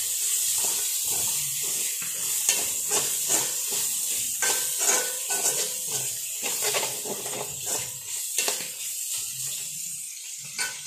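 Sliced shallots and curry leaves sizzling in hot oil in a metal kadai, with a metal ladle scraping and knocking against the pan in quick repeated strokes as they are stirred. The sizzle eases a little towards the end.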